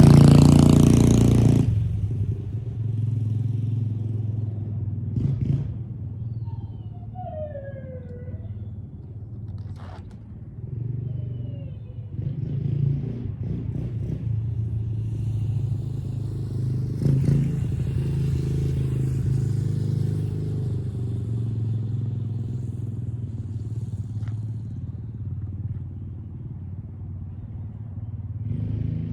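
Motorcycle engine revved loudly at first, dropping within two seconds to a steady idle. There are a few faint clicks and a short falling whistle around the middle.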